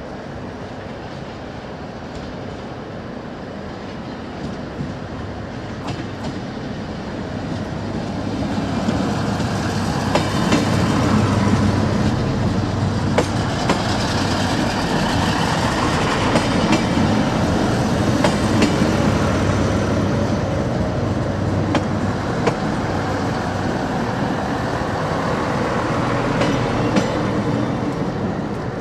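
Shunting train of passenger coaches moving slowly, getting louder from about eight seconds in as it draws near. It is a steady rumble, with scattered clicks of the wheels over rail joints.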